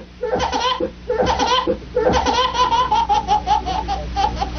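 A baby laughing hard in quick, repeated pulses. It pauses briefly twice, then laughs in one long unbroken run.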